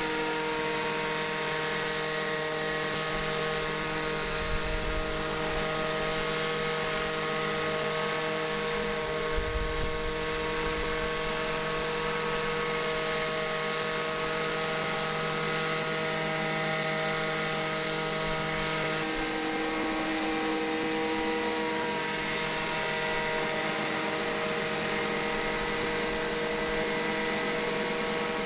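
Model helicopter's Nitto Wankel gasoline engine running at a steady speed, with its rotor. It gives an even, buzzy drone that changes pitch slightly about two-thirds of the way through. Two brief low rumbles come about four and nine seconds in.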